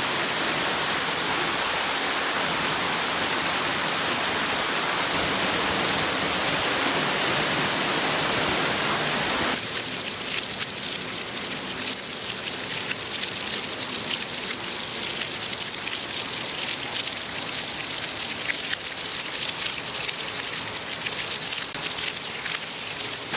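Torrential rain pouring down, a steady loud hiss. About ten seconds in the sound changes abruptly to a thinner hiss with more separate drop ticks.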